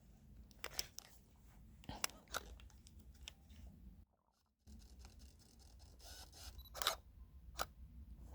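Canon EOS 1200D DSLR being shot and handled: a few scattered sharp clicks, the two loudest near the end. The sound drops to dead silence for about half a second a little before the middle.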